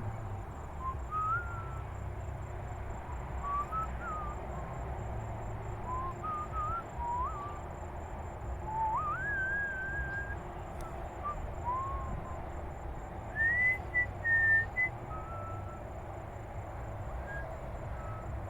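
A series of clear whistled notes, each short and sliding up or down in pitch, scattered irregularly with gaps, with a few higher, louder notes about two-thirds of the way through. A steady low rumble runs underneath.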